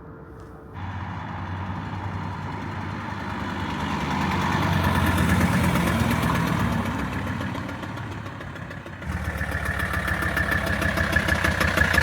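A Mercedes OM617 five-cylinder turbo diesel engine running under load on a test drive. It grows louder to a peak around the middle, then eases off, with abrupt changes in the sound about a second in and again about nine seconds in.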